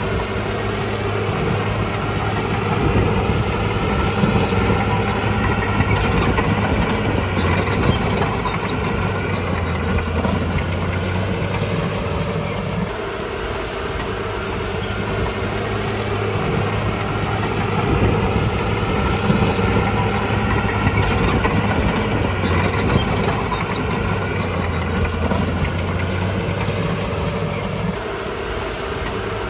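Crawler bulldozer's diesel engine running, building up and easing off in two long cycles as it pushes, with short bouts of metallic clanking from the machine.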